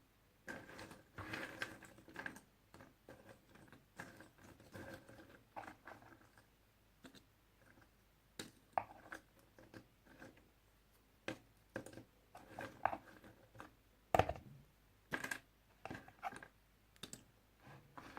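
Puzzle pieces handled close to the microphone: irregular light clicks and taps with short rustling scrapes, and a sharper knock about 14 seconds in.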